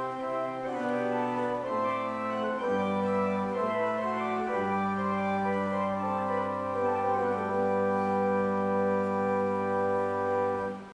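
Organ playing slow, sustained chords, changing chord every second or so, then settling on a long held final chord that stops abruptly at the end.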